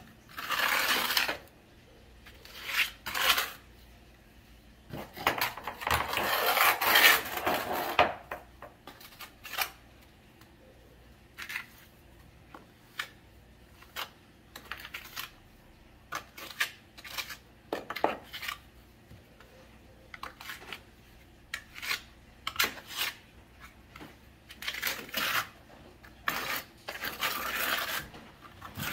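Hand tools scraping and clinking against ceramic tile and the hard floor in short, irregular strokes, with longer scrapes near the start, in the middle and near the end.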